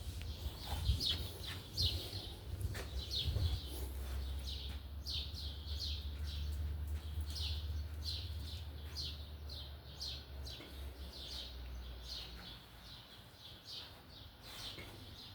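Small birds chirping, a steady run of short, high, falling chirps several times a second, with a low rumble underneath that fades out about ten seconds in.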